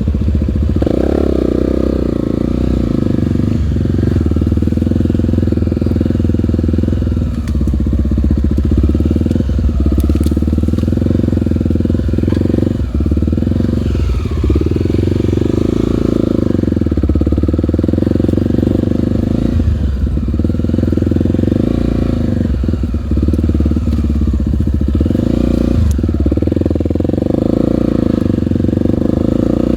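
Single-cylinder four-stroke trail motorcycle engine running continuously under way. The throttle is briefly closed and reopened again and again, about every two to four seconds.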